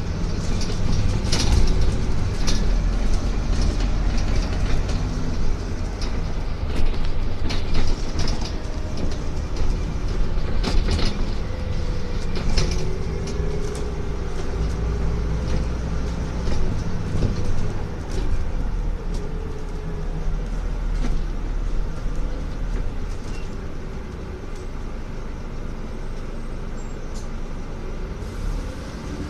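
Scania N250UD double-decker bus with its five-cylinder diesel, heard from inside the bus: a steady low engine rumble with frequent rattles and knocks from the body, mostly in the first half. A whine rises and falls in pitch around the middle.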